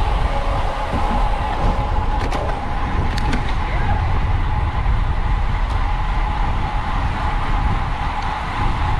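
Wind buffeting a bicycle racer's on-board camera microphone at race speed: a steady low rush with a constant whine, and a few sharp clicks around two to three seconds in.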